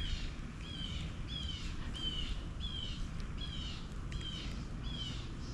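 A bird repeating the same short, hooked call note over and over, about two a second.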